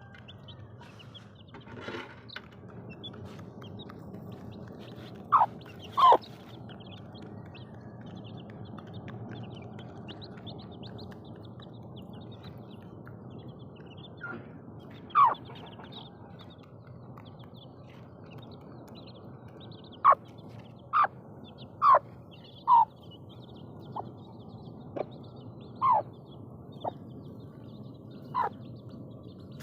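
Aseel chickens calling: about a dozen short, loud calls, each falling in pitch, come in two clusters, a pair several seconds in and a run of them in the second half. Faint, constant high cheeping sits under them throughout.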